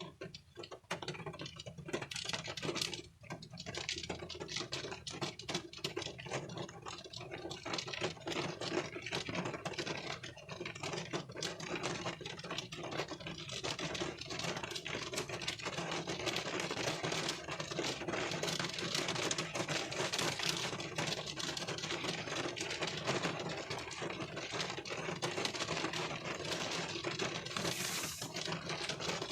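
Rain falling on a car windshield, heard from inside the car: a dense, irregular patter of drops over a steady hiss, a little thinner for the first few seconds before settling into an even fall.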